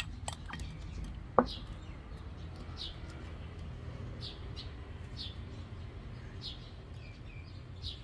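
A small bird chirping, short high chirps repeated about once a second. A metal spoon clinks sharply against a ceramic bowl at the start and again, louder, about a second and a half in.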